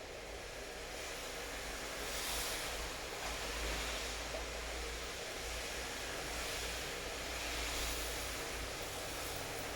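Steady rain falling, a constant hiss that swells a little about two seconds in and again near eight seconds, over a low rumble.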